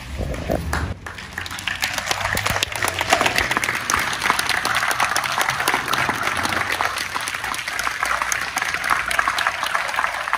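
An outdoor crowd applauding, the clapping building over the first two seconds and then holding steady.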